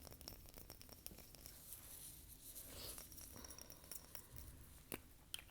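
Quiet ASMR hand and finger sounds close to the microphone: faint scattered clicks and soft rustling, with a couple of sharper clicks near the end.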